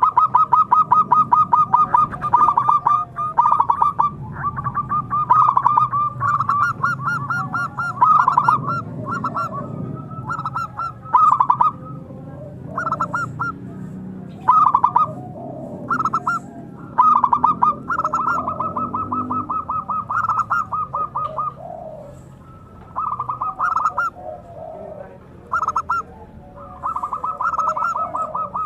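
Zebra dove (perkutut) cooing in fast stuttering trains of notes, phrase after phrase with short breaks between.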